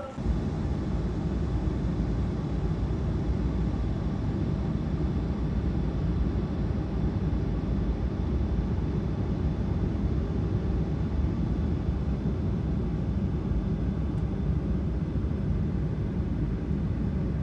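Steady low rumble of an airliner cabin in flight, engine and air noise, unchanging throughout.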